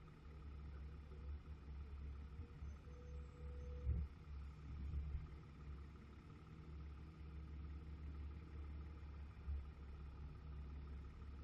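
Low, steady vehicle engine rumble, with a brief knock about four seconds in.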